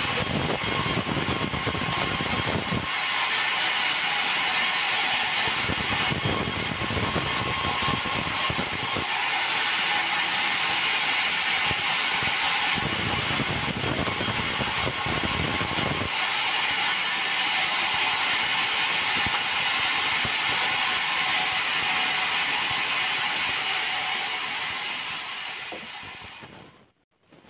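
Sawmill band saw running and cutting a meranti log: a steady harsh mechanical noise, with a heavier low rumble that comes and goes every few seconds. It fades out near the end.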